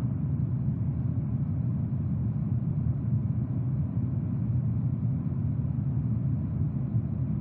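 Jet aircraft engines in flight: a steady, even low rumble with no change in pitch.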